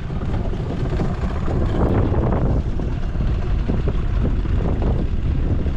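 Strong wind buffeting the microphone: a heavy, uneven low rumble with no let-up.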